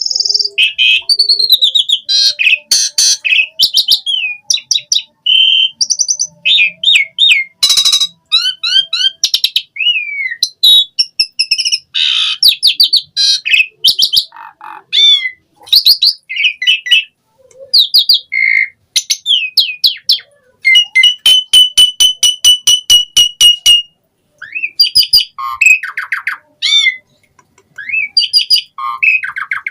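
Asian pied starling (jalak suren) singing a long, varied song of loud whistles, chatter and gliding notes. About two-thirds of the way through there is a rapid run of evenly spaced clicks.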